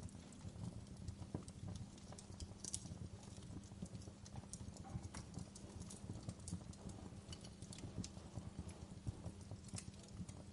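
Wood fire burning in a fireplace: logs crackling with dense, irregular pops and snaps over a steady low rumble of flames, with a few sharper snaps standing out.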